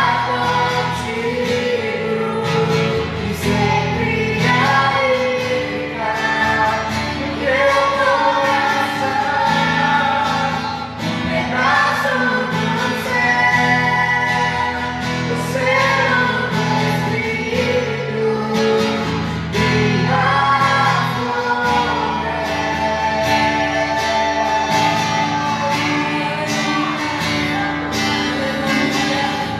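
Christian worship song: singing with several voices over a steady instrumental accompaniment.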